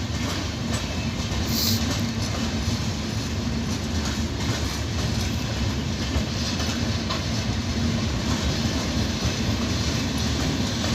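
Indian Railways express train rolling past: a steady rumble of wheels on rails with scattered clacks. A brief high hiss sounds near the start.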